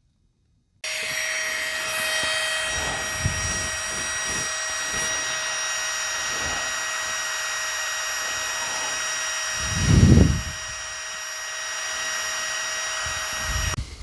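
Small electric air pump running steadily with a whine, inflating a Therm-a-Rest NeoAir XTherm sleeping pad. It switches on about a second in and cuts off just before the end, with a dull thump about ten seconds in.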